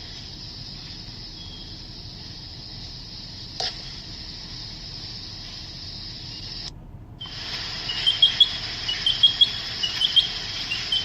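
Rescued baby bird cheeping, a run of short high-pitched chirps repeated several times a second, starting about seven seconds in; before that only a steady high-pitched hiss and a single click.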